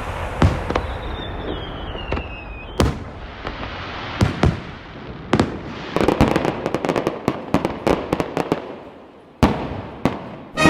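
Aerial fireworks bursting: a string of sharp bangs with rumbling echoes, a falling whistle about a second in, and a dense run of crackling bursts in the second half, with the loudest bang near the end.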